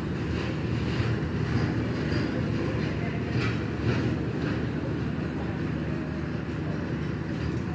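Coal freight train rolling past: a steady low rumble of the wagons with irregular clicks and clanks from the wheels on the rails.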